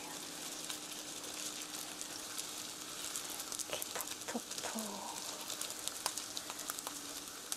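Ground-pork hamburger patties sizzling steadily in a frying pan over low heat, with a few soft clicks and pats of the raw meat being shaped by hand. A faint steady hum runs underneath.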